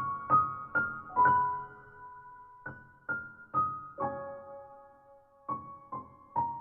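Background piano music: a gentle melody of single struck notes, a few quick ones at first, then slower notes left to ring and fade.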